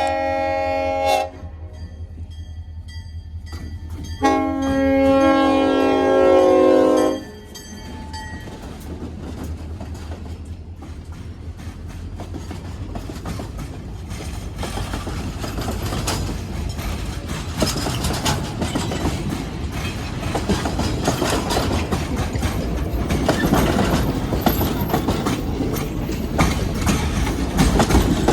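Five-chime Nathan K5LLA air horn on an EMD SD40 diesel locomotive sounds a short blast, then a long one of about three seconds, the close of a grade-crossing signal. The train then rumbles past, louder toward the end, with its wheels clicking over the rail joints.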